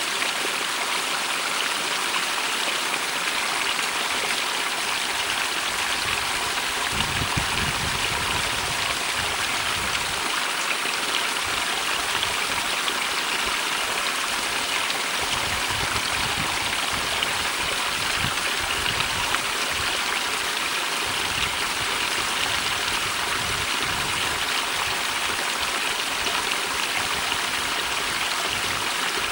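Small stream running through a rock cleft: a steady rushing of water, with irregular low rumbles starting about seven seconds in.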